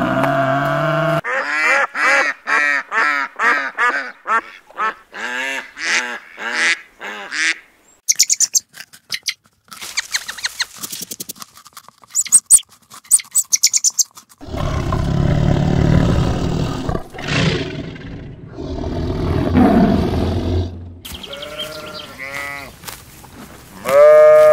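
A series of different farm animal calls, cut one after another: quick repeated calls, then sharp high chirps, then longer, rougher, lower calls, and finally a loud pitched call near the end.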